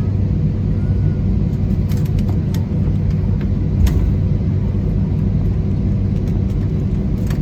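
Cabin noise of an Airbus A320 moving along the ground: a steady engine hum and deep rumble, with a few sharp knocks and rattles.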